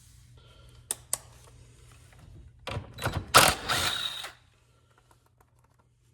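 Hand tools working on small bolts of an old lawn mower: two sharp metal clicks, then a loud second and a half of quick clicking and rattling, then it stops.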